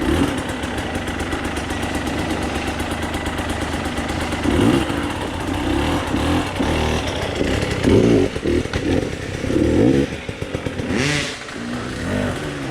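Enduro dirt bike engine running, blipped up in revs several times in the middle, then easing back near the end.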